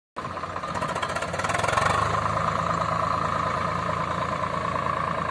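Tractor diesel engine running steadily with a high whine over it, cutting in abruptly at the start and swelling a little about a second and a half in.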